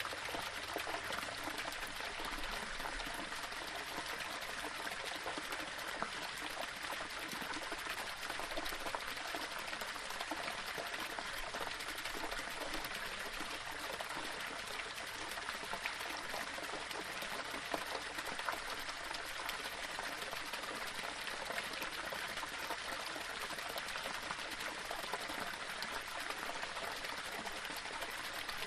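Small waterfall splashing and trickling over rocks: a steady rush of falling water with many small splashes.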